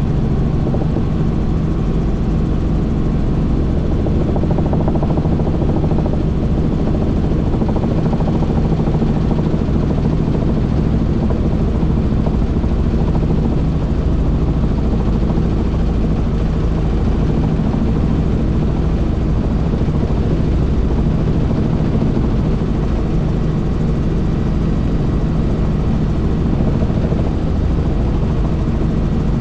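Helicopter engine and rotor noise, loud and steady, as heard from inside the cabin in flight.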